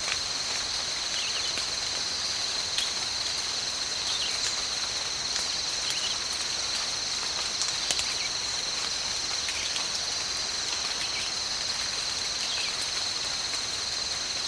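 A steady, high-pitched insect chorus that drones without a break, with a few faint clicks and short chirps over it.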